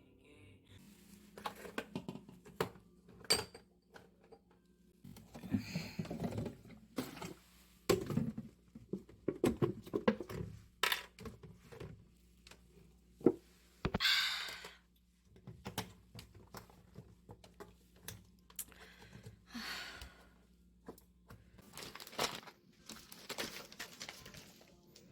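Objects being handled in a small room: rustling and crinkling packaging, with scattered knocks and thunks. A faint steady hum stops about three quarters of the way through.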